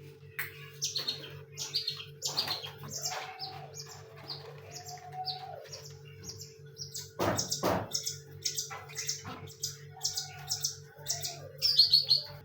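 Caged songbirds chirping with many short, high, repeated notes, busier from about seven seconds in. A steady low hum runs underneath, and a couple of knocks come about seven seconds in.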